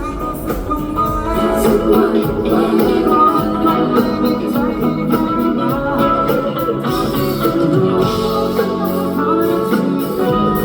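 Rock band playing a passage without lyrics, with a steady drum beat under sustained instrument notes.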